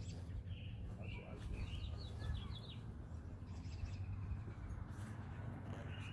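Small birds chirping in short twittering phrases, over a steady low rumble.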